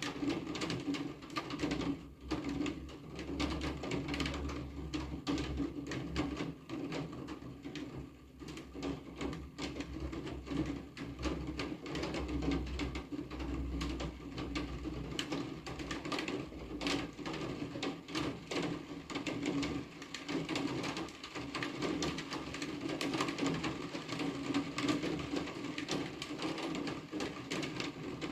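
Steady rain, with many close drops ticking irregularly on a hard surface. A low rumble runs under it for roughly the first half.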